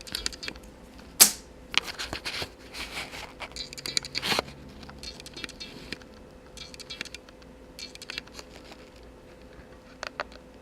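Handling noise of a hand-held camera and ruler: scattered scraping and rustling with a sharp click about a second in and another about four seconds in, over a faint steady hum.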